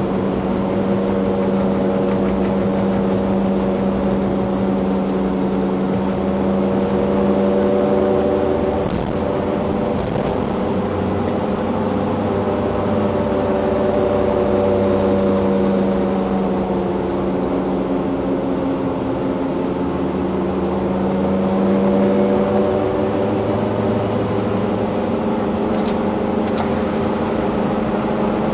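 Vehicle engine running with a steady droning hum, its pitch drifting slightly up and down and its loudness swelling a little about eight seconds in and again near twenty-two seconds.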